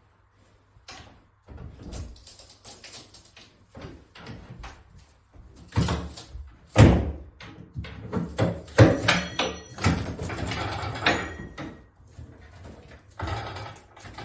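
Irregular knocks, bangs and clattering of things being handled and set down, loudest about halfway through, with a short metallic ring near the end of that loud stretch.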